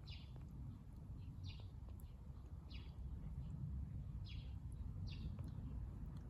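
A bird calling over and over: five short, high chirps, each dropping slightly in pitch, about one every second or so, over a steady low rumble.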